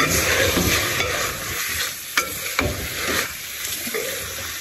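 Food sizzling in a hot pan while being stirred, with two sharp knocks of a utensil against the pan about two seconds in; the sizzle dies down toward the end.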